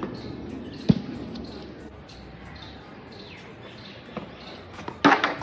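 Birds chirping faintly in the background, with a single sharp thud about a second in and a louder, brief noisy clatter near the end.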